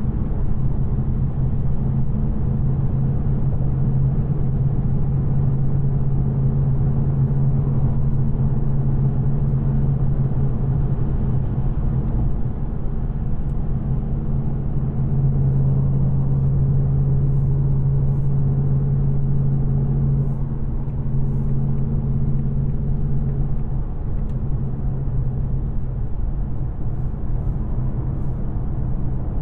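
2024 Ford Mustang GT's 5.0-litre Coyote V8, still on its stock headers, cruising at steady low revs: an even engine drone over road rumble. The engine note eases slightly in the last third.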